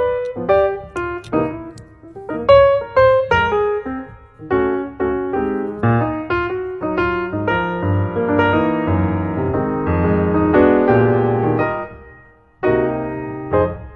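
Background piano music, a melody of struck notes over chords, with a brief pause near the end.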